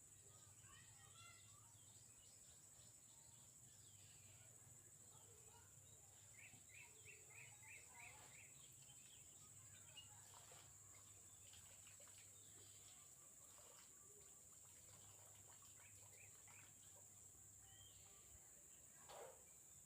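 Faint wild bird calls: scattered chirps, with a quick run of about seven short notes some six seconds in, over a steady low hum.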